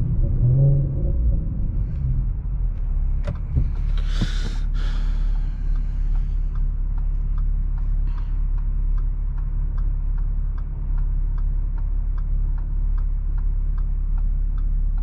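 2017 Audi SQ5's supercharged 3.0-litre V6, with AWE non-resonated downpipes and Touring catback exhaust, heard from inside the cabin as the car slows and the engine settles to a steady, low idle drone. A brief hiss comes about four seconds in, and from about six seconds a regular tick about twice a second.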